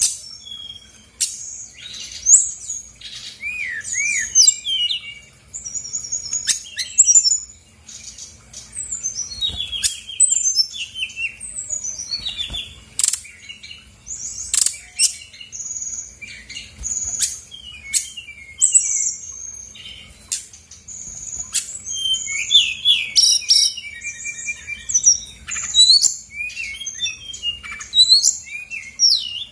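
Brown-chested jungle flycatcher singing a long, fast, varied song of chirps, trills, whistled glides and sharp clicks, packed with learned phrases copied from other birds.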